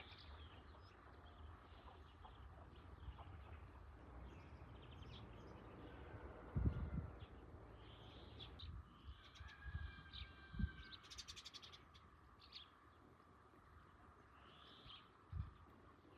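Birds chirping and calling, with a few low thumps; the loudest thump comes about six and a half seconds in and another near the end.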